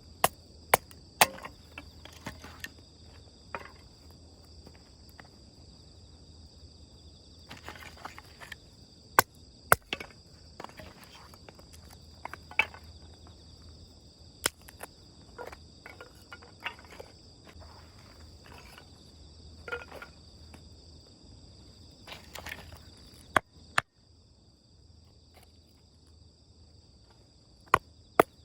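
Wood crackling in a small campfire: sharp, irregular pops and snaps, a few much louder than the rest, over a steady high chirring of insects.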